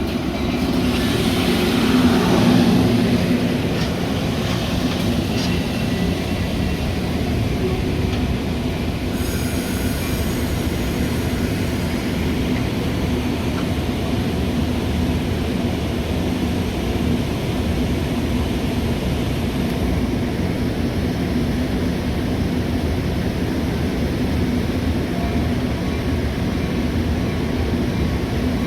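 Metra commuter train running, a steady rumble of wheels on rail. A tone falls in pitch over the first few seconds.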